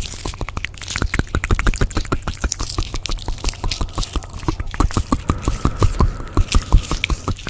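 A rapid run of sharp ASMR clicks and taps, several a second, with a faint steady high tone joining about halfway through.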